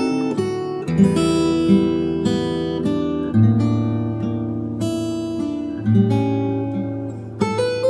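Relaxing acoustic guitar music: slow plucked notes over a sustained bass line, new notes struck roughly every second and left to ring.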